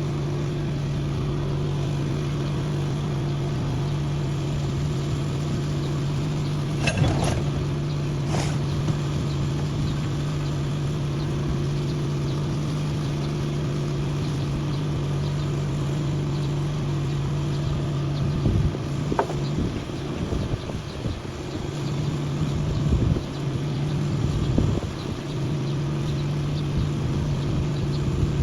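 A steady low engine-like drone, like a machine idling. Two sharp clanks sound about seven and eight and a half seconds in. In the last third the drone drops in and out among irregular knocks.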